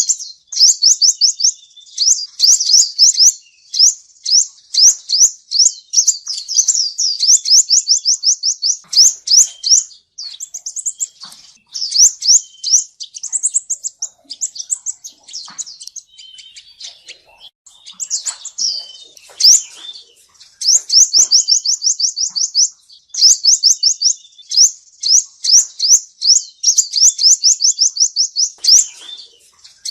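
Male sunbird (the Vietnamese 'seven-colour' sunbird) singing: fast, high chirping trills of several notes a second, in bursts of a few seconds with short breaks of looser twittering between them. It is a recorded song used as a lure for trapping.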